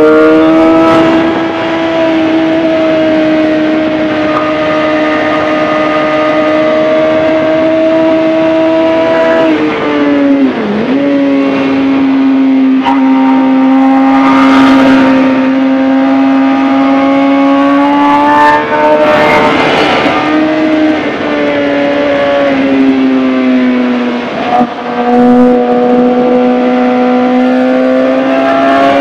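2011 Suzuki GSX-R 750's inline-four engine running at high revs under throttle on track, its note held fairly steady and dipping briefly twice. Two short gusts of wind noise come over it.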